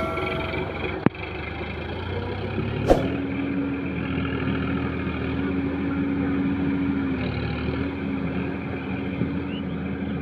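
Tractor diesel engine running steadily under load, its note rising slightly and easing back about three-quarters of the way through, with two sharp knocks about one and three seconds in.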